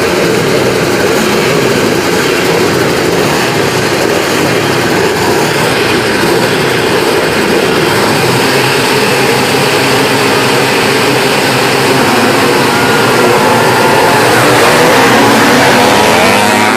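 Engines of vintage motocross motorcycles running hard on the track, several together, with rising revs and getting a little louder in the second half.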